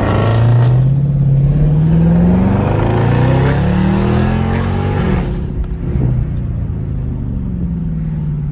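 Car engine accelerating hard, its pitch climbing, dropping at a shift about two and a half seconds in, then climbing again. It backs off about five seconds in to a lower, easing note.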